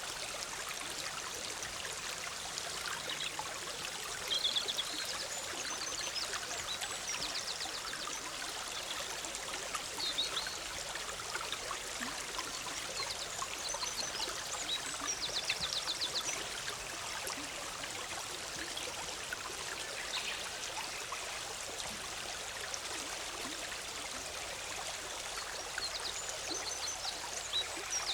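A forest stream bubbling and rushing steadily over rocks, with short, high bird chirps and trills breaking in now and then, several of them in the last few seconds.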